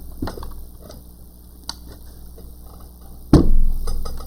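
Light clicks and knocks of a laptop being handled, with one loud thump about three seconds in.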